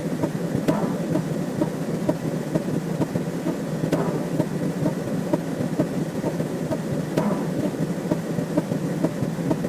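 Continuous sound-effect texture: a dense, rapid crackle of small ticks, with a brighter accent about every three seconds.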